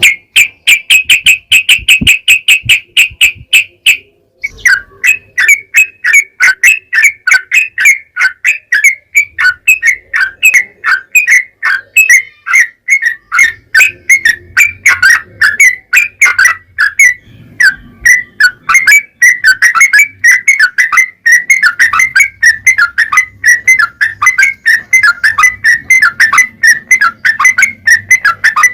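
Yellow-vented bulbul (trucukan) singing a long, rapid run of short chirping notes, several a second. It opens with a steady trill for the first four seconds, then breaks off briefly before the quick notes carry on.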